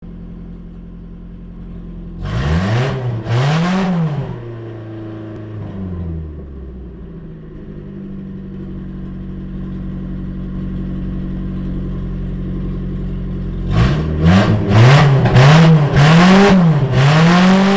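1993 Geo Storm's 1.6-litre four-cylinder engine, heard from inside the cabin, being revved while parked. It idles, is revved twice in quick succession about two seconds in, then settles to a slightly raised steady speed. Near the end it is blipped sharply several times in a row.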